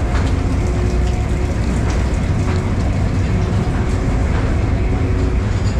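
Mine tour train running through a tunnel: a steady, heavy low rumble from the cars and wheels, with scattered light clicks.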